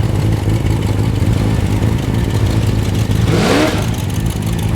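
Rotary engine car idling with a low, steady rumble, then revved sharply about three seconds in, the pitch sweeping up and falling back; a second rev begins right at the end.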